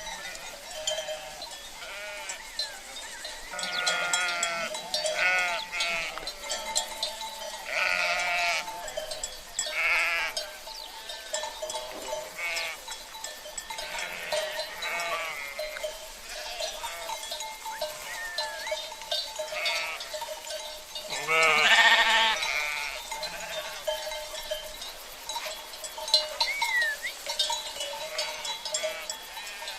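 A flock of sheep bleating over and over with quavering calls, the loudest about two-thirds of the way through, while cowbells ring on.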